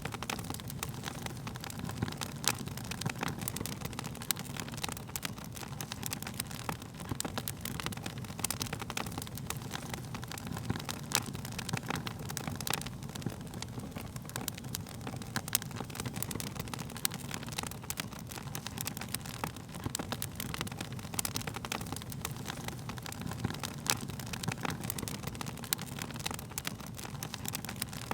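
Wood fire burning steadily, crackling and popping at irregular moments over a low, even rumble of the flames.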